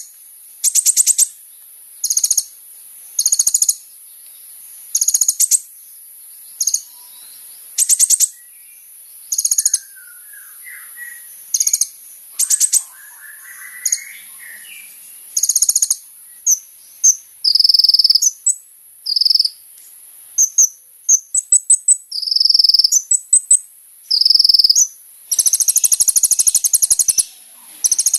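Kolibri ninja sunbird singing: short, high, fast buzzy trills repeated about once a second. About halfway through they give way to clearer whistled notes and thin squeaks, then a longer unbroken trill near the end.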